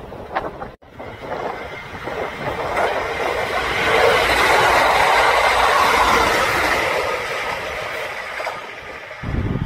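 Train running on rails: the noise swells to its loudest about four to six seconds in, then fades. It cuts out briefly near the start, and there is a low rumble near the end.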